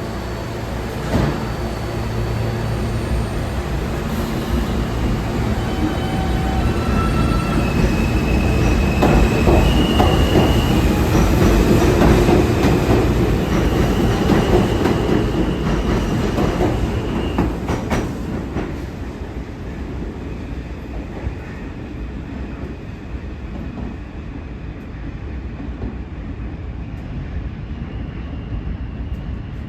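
R160 subway train pulling out of the station: stepped whining tones from the propulsion and wheel-on-rail noise, building to a peak about halfway and then fading as the train draws away, with a few sharp clicks near the end of the peak.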